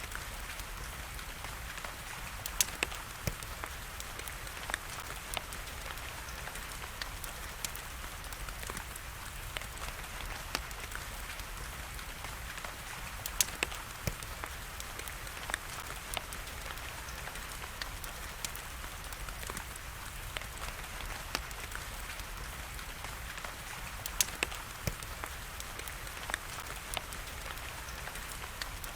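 Steady rain with sharp, irregular pops and crackles of a burning wood fire.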